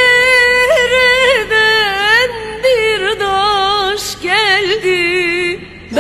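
Background music: a woman singing held notes with vibrato and ornamented pitch bends, in short phrases.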